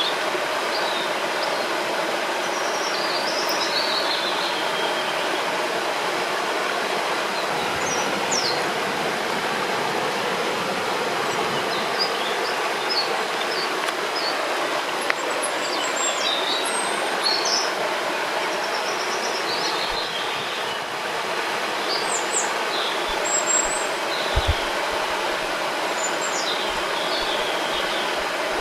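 Steady rush of river water, with small birds chirping on and off over it.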